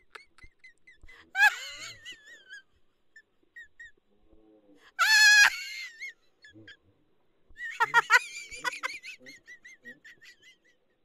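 A bird calling: short high chirps, with three louder, wavering calls about 1.5, 5 and 8 seconds in.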